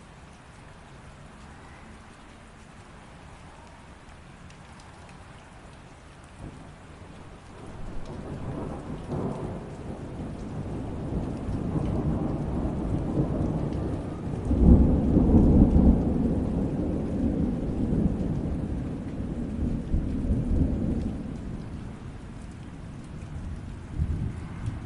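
Steady rain, then a long roll of thunder that builds about a third of the way in. It is loudest around the middle and slowly rumbles away toward the end.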